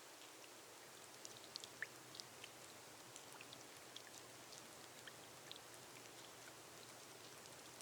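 Gentle rain on a glass roof: a faint, steady hiss scattered with many small, sharp droplet ticks.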